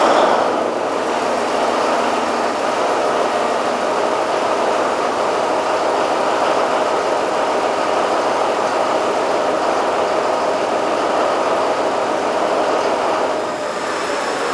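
Caterpillar V12 diesel generator engine running steadily, with a constant tone over a dense mechanical noise. It swells suddenly at the start and drops slightly near the end, where a high falling whine comes in.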